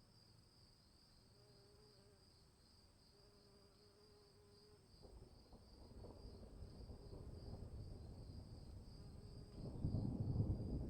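Crickets chirping in a steady, fast pulsing drone. From about halfway a low rumble builds beneath them, growing suddenly louder near the end.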